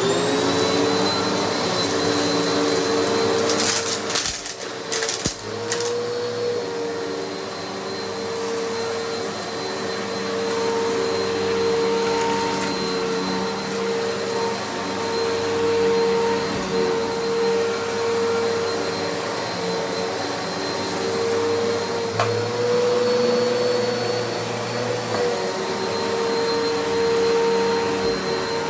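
Eureka Altima upright vacuum cleaner spinning up to speed at the start, then running steadily on carpet with a high motor whine whose pitch shifts slightly now and then. A few sharp crackles about four to five seconds in.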